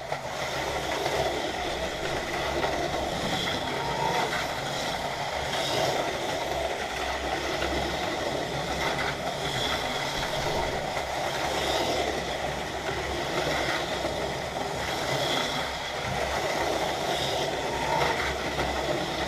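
HO-scale Auto World ThunderJet 500 slot cars running laps on the track: small electric motors whining, with tyres and pickup shoes on the rails making a steady running noise that swells every couple of seconds as cars pass by.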